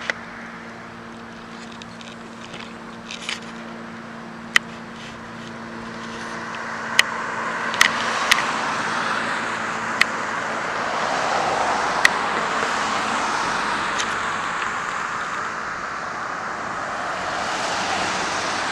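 Road traffic: a vehicle's tyre and engine noise swells from about six seconds in and stays up before easing off. A steady low hum runs underneath, and there are several sharp clicks.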